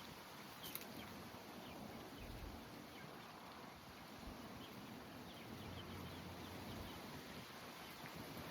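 Faint outdoor background noise with a few faint high chirps scattered through it and a light click about a second in.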